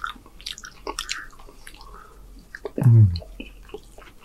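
Close-miked chewing: wet mouth smacks and clicks throughout. About three seconds in comes a short hummed 'mm' that falls in pitch, the loudest sound here.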